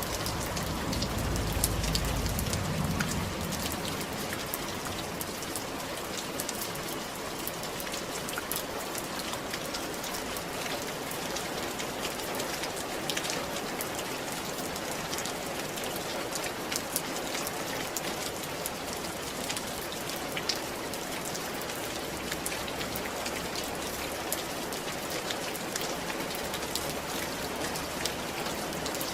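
Steady rain falling on a roof, a continuous patter with many sharp individual drop ticks. A low rumble sounds in the first few seconds, then fades.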